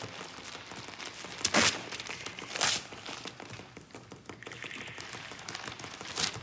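A busy clutter of small clicks and rustles. Two louder crinkling rustles come about a second apart, near the middle.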